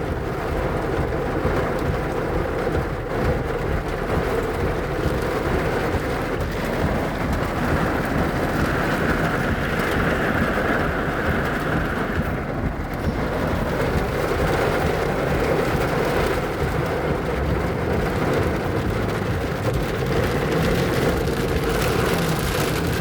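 Heavy rain pouring down in a steady, loud downpour, with a low rumble underneath.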